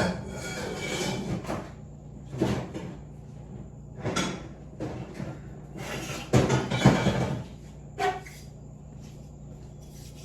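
Metal tools clattering and scraping as they are rummaged through, in several short spells, the loudest a little past the middle.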